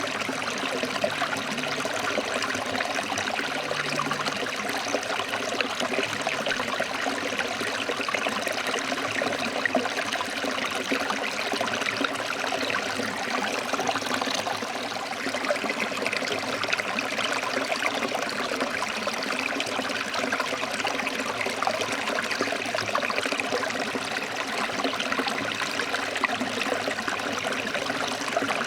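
Forest stream flowing over rocks: a steady rush of water with fine splashing and trickling.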